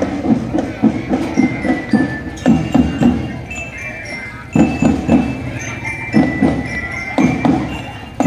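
Marching drum band playing: quick, rhythmic drum strokes under a bright metal-bar melody of the kind a bell-lyre (marching glockenspiel) gives. There is a short lull about four seconds in, then the drumming returns.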